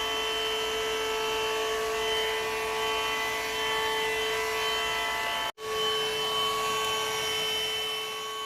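Vacuum cleaner running with a steady whine from its motor. The sound cuts out for an instant a little past halfway, then carries on as before.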